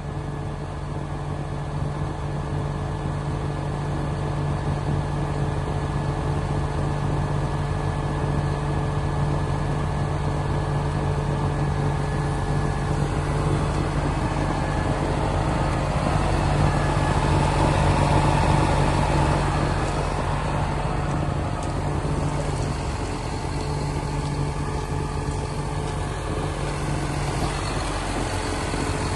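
John Deere 7930 tractor's diesel engine running steadily, growing a little louder around the middle.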